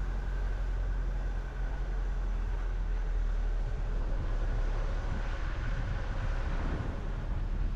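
A car driving on a road: a steady, low rumble of engine and tyre noise.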